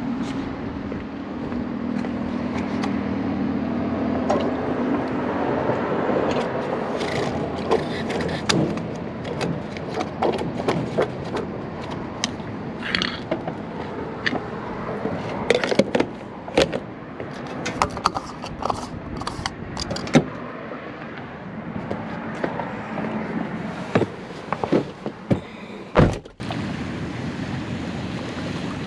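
A vehicle running, with a low hum at first, then a string of scattered knocks, clicks and thuds.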